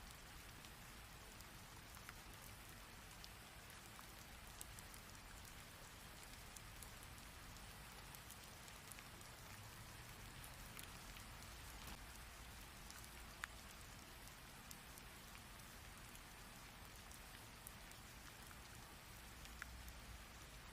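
Steady rain, a fine even patter with scattered single drops ticking sharply.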